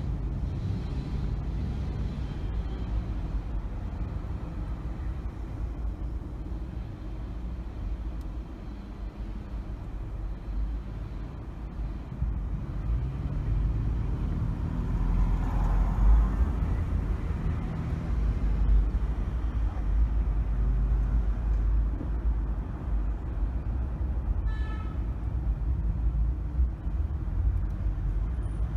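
A car driving through city traffic: a steady low engine and road rumble, swelling louder about halfway through. A brief high-pitched tone sounds near the end.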